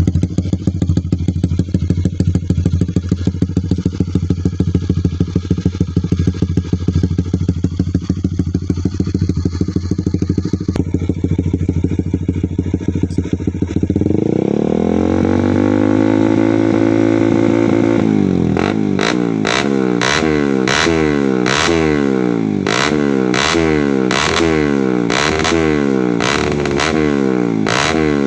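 Honda CBR150R's single-cylinder engine through an aftermarket racing exhaust. It idles with a loud, pulsing beat, then is revved up about 14 seconds in and held there for a few seconds. It is then blipped repeatedly, the revs rising and falling about once a second.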